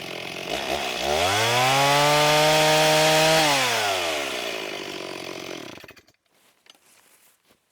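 Stihl MS260 two-stroke chainsaw idling, then revved up hard about a second in, held at high revs for a couple of seconds, and let back down to idle before it cuts off about six seconds in.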